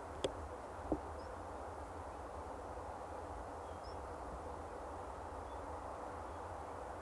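Steady outdoor background hiss and rumble, with two short clicks near the start and a few faint, high, short chirps.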